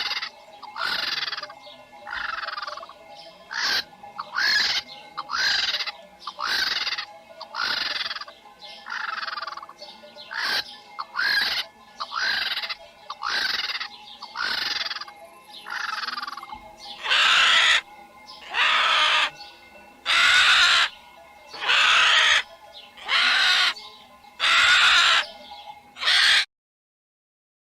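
A bird calling over and over, each call sliding down in pitch, about one a second. Partway through the calls become louder and longer and more spaced out, then they stop abruptly near the end.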